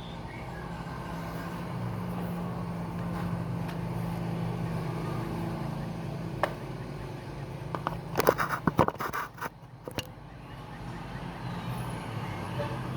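A steady low engine-like hum that swells and holds for several seconds, then a quick cluster of sharp clicks and knocks about two-thirds of the way through.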